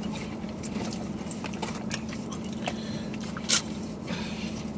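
Close chewing and crunching of crunchy snack food, with scattered sharp crunches, the loudest about three and a half seconds in, over a steady low hum.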